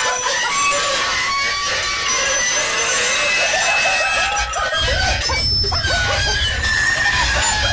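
Many birds calling at once in short, overlapping notes. A low rumble joins about two-thirds of the way through.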